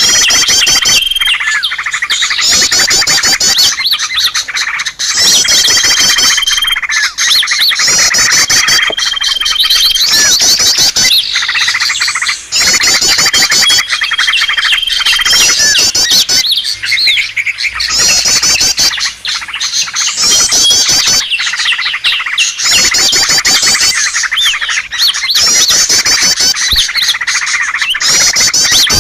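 Many small songbirds calling over one another, loud and unbroken: quick high trills repeat every second or two, a few held whistle notes come through, and steady twittering runs beneath. It is a layered lure recording of small-bird calls, used to draw in wild birds.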